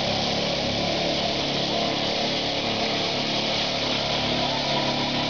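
Competition pulling tractor's engine running hard and steady during a pull.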